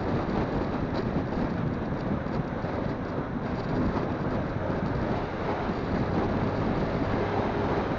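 Wind rushing over a phone microphone on a moving motorcycle, with the engine running steadily underneath.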